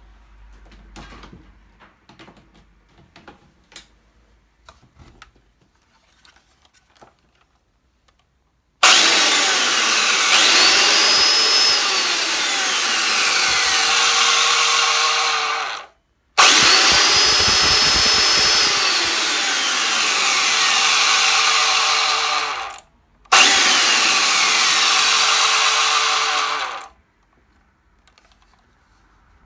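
Makita 9901 belt sander switched on and run three times, each run spinning up to a steady whine, holding for several seconds and winding down when switched off. Light handling clicks come before the first run.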